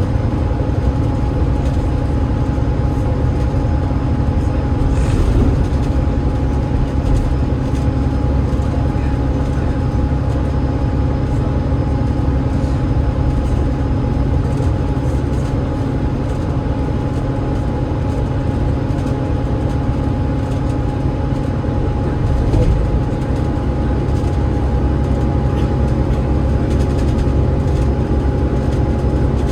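Alexander Dennis Enviro500 MMC double-decker bus with a Cummins ISL8.9 diesel engine and ZF EcoLife six-speed automatic gearbox, heard from inside while running at a steady speed: a deep, even rumble of engine and road noise with a thin, steady whine held on top.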